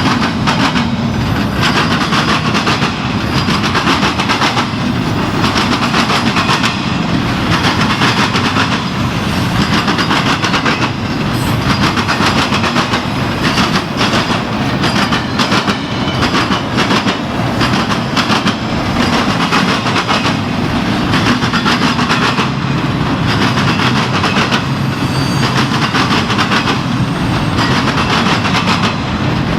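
Freight cars of a long intermodal train rolling past at speed: a loud, steady rumble of steel wheels on rail with continual clickety-clack over the joints.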